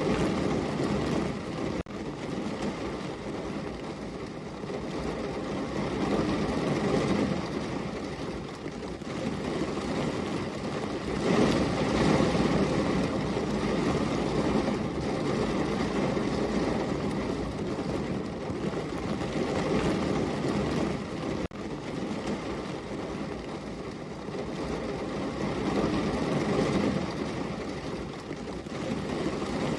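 Heavy rain falling steadily, a dense rushing noise with a deep, rumbling low end that swells louder a few times.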